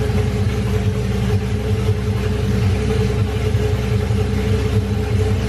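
BMW M30B35 3.5-litre straight-six on individual throttle bodies, freshly swapped into an E28, idling steadily and loudly. The exhaust note is heavy, reminiscent of a small-block V8, and drowns out any intake noise from the throttle bodies.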